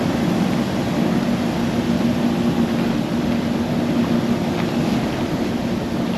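Ship machinery running: a steady drone with a constant low hum.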